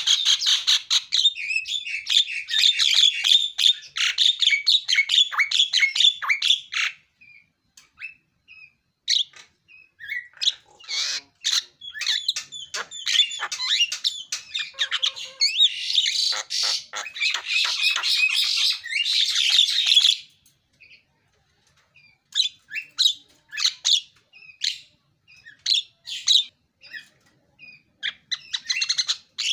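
Javan myna (jalak kebo) singing: rapid, harsh chattering and squawky notes. There is a long bout at the start, scattered single calls, a second dense bout about 16 seconds in, then sparse notes near the end.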